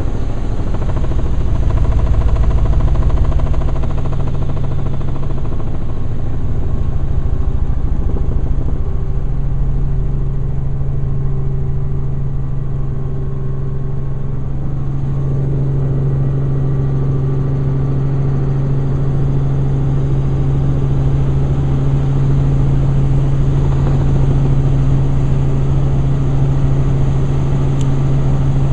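Helicopter in flight heard from aboard: a loud, steady drone of the engine and rotor with a strong low hum.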